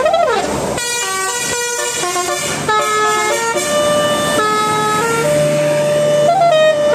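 A siren-like electronic tone swoops up and back down, then a tune of held notes that step from pitch to pitch, several notes sounding together.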